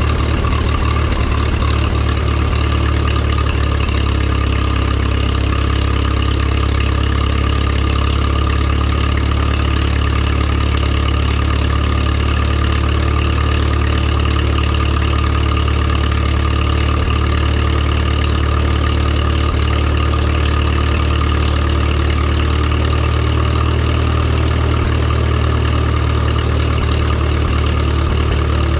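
1954 Minneapolis Moline UBU tractor's four-cylinder engine running steadily at an even speed, freshly tuned with new plugs, points and condenser and its timing set.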